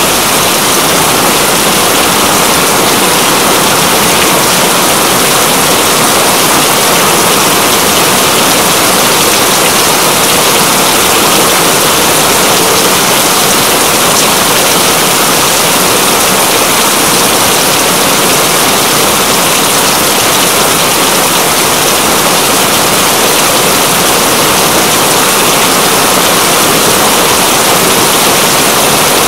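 Steady heavy rain, an even unbroken hiss with no change in intensity.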